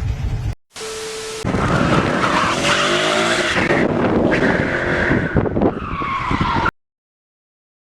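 Car tyres skidding and squealing on the road for about five seconds, after a brief steady tone. The sound cuts off suddenly.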